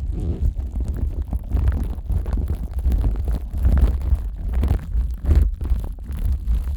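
Plastic wrap stretched over a Neumann KU100 dummy-head microphone being rubbed and pressed by rubber-gloved hands. It gives a continuous irregular crinkling and crackling over a deep, uneven rumble of handling noise on the microphone.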